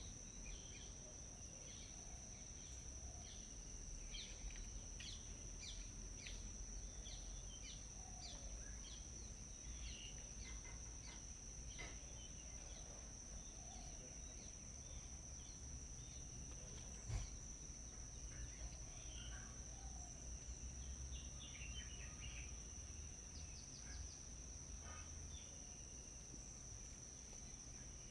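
Faint outdoor birdsong: many short bird chirps scattered through, over a steady high insect drone, typical of crickets. One sharp knock sounds about two-thirds of the way through.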